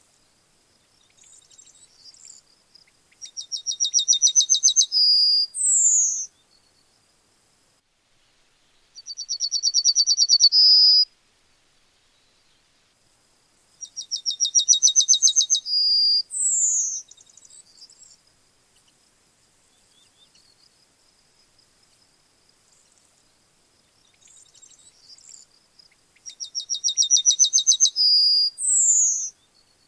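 Yellowhammer singing: four songs, each a fast run of repeated notes that grows louder, three of them ending in a held note and a drawn-out falling note. A faint steady high tone continues between the songs.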